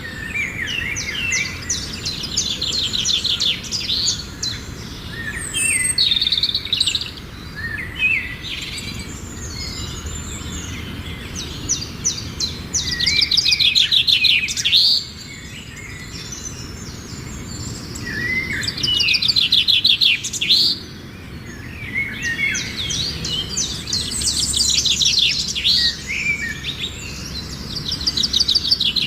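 Songbirds singing: a busy mix of varied chirps and whistles with repeated fast trills. The loudest trilling phrases come about halfway through and again later on.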